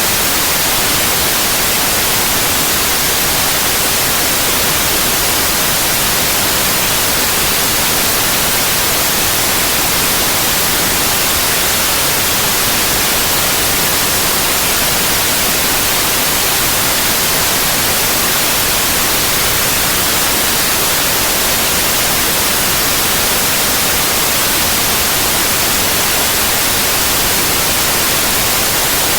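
Synthetic white noise: a steady, even hiss spread across all pitches, brightest in the highs, with no change or interruption.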